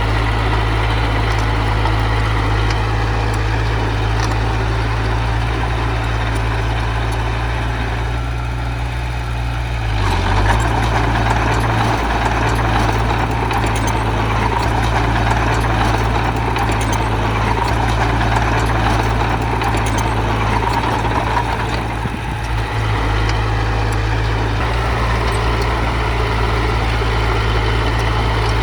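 Heavy diesel engine of earthmoving machinery running steadily with a deep drone; it grows louder and harsher about a third of the way in and eases back about three-quarters through.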